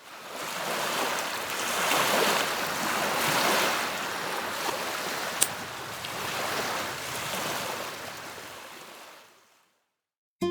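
Lake water washing against the shore, fading in, swelling and ebbing a few times, then fading out about nine and a half seconds in. A single sharp click about halfway through.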